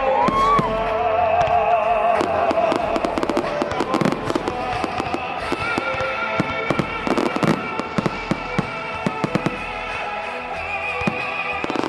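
Fireworks going off in quick, dense volleys of cracks and pops, over loud music with held tones.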